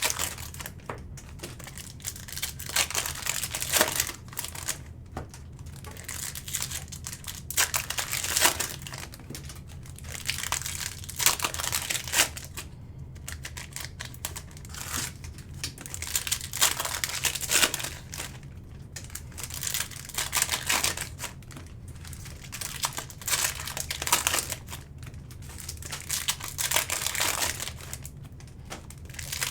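Plastic and foil wrapping of trading-card packs being torn open and crinkled in irregular bursts.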